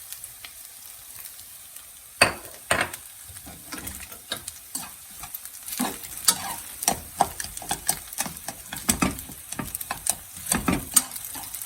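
Rice mixed with egg sizzling as it fries in oil in a pan, with a spatula stirring and scraping through it. From about two seconds in, irregular sharp strikes of the utensil against the pan, the loudest two close together near the start of that stretch.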